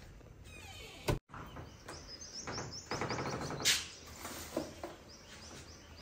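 Small birds chirping in quick series, with a short knock just past halfway.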